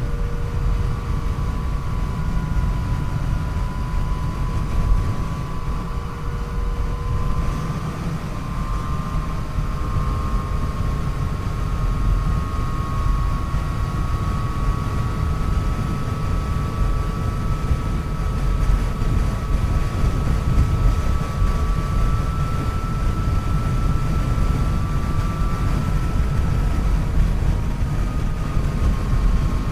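Yamaha FJ-09's 847 cc inline three-cylinder engine running at a steady cruise, its pitch drifting slightly up and down, under heavy wind rumble on the onboard microphone at riding speed.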